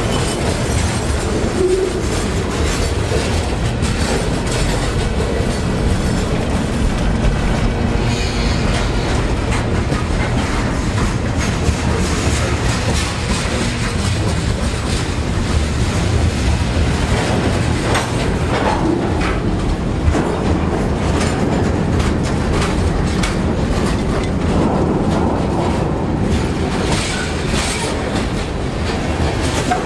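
Freight train cars rolling past close by: a steady rumble with the clickety-clack of steel wheels over rail joints.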